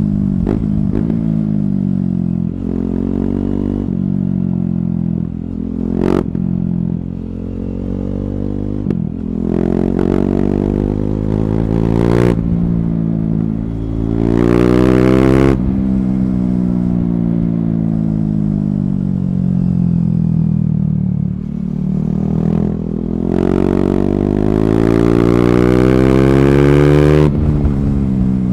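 KTM Duke 390's single-cylinder engine through an Akrapovic slip-on exhaust with the catalyst removed, under hard acceleration. Its pitch climbs and then drops sharply at each gear change, several times over, with a long falling stretch as it slows in the middle.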